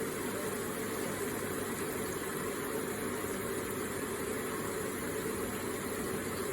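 Electric water feature running: a steady, even flow of falling, splashing water.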